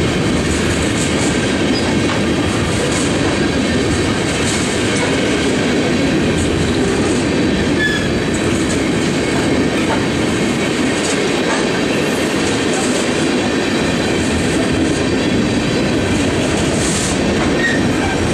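Railroad cars rolling past close by: a steady, loud noise of steel wheels on rail that keeps up without a break.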